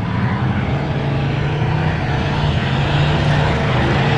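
A loud engine running steadily with a deep droning hum that grows slightly louder.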